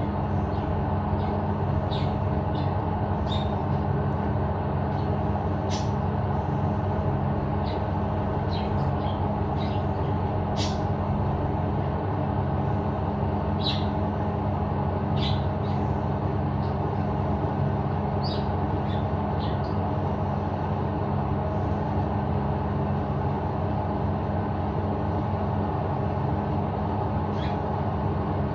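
Short, high chirps from a green budgie, about ten scattered through the stretch, over a loud, steady machine hum.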